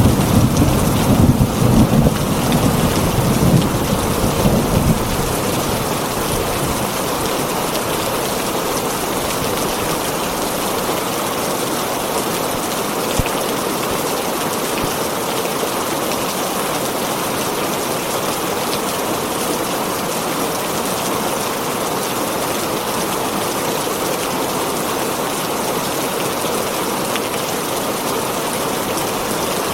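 Heavy rain falling on a tin roof in a dense, steady hiss, with a low rumble of thunder that dies away over the first five seconds.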